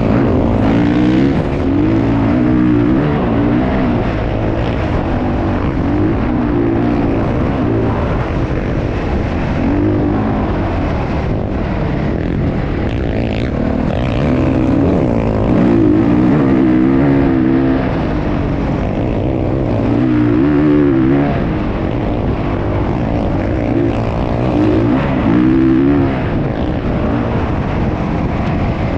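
Motocross dirt-bike engines running hard, their pitch climbing and dropping over and over as the throttle opens and shuts.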